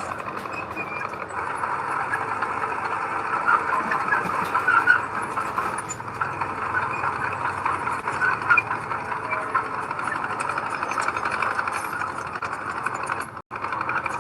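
Heavy diesel earthmoving machinery running steadily under load, with a dense clattering engine note. The sound cuts out briefly near the end.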